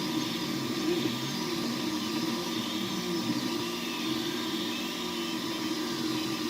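3D printer running, its stepper motors whining in tones that shift in pitch every fraction of a second as the print head moves, with faint gliding tones higher up.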